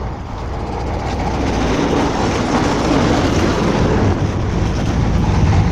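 Steel gate being closed, a continuous rolling, rattling metal noise that builds in loudness.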